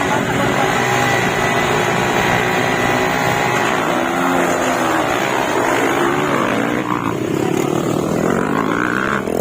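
Motocross dirt bike engines running, revving up and down.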